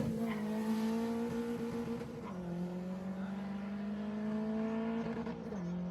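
Race car engine accelerating away into the distance after passing close. Its pitch climbs steadily, then drops twice as it shifts up a gear, about two seconds in and again near the end.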